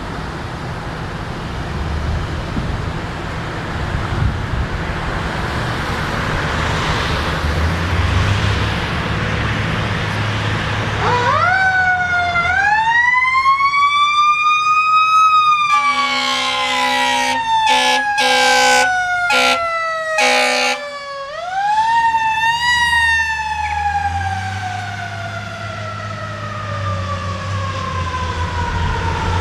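Fire engine under way, its engine and road noise running for a while. Then the siren winds up into a rising wail and slowly falls. Several short blasts of the air horn cut in. The siren then winds up again and falls away slowly.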